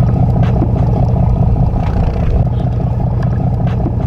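Charter boat's engine running steadily: a loud, even low-pitched noise with no change in speed.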